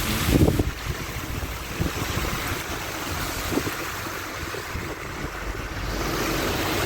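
Floodwater rushing and splashing around a car as it drives through deep water, a steady wash of noise with a brief louder splash about half a second in.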